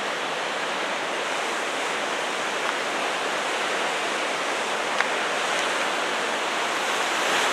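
Steady rush of Pacific Ocean surf breaking on the rocks below a sea cliff, mixed with wind.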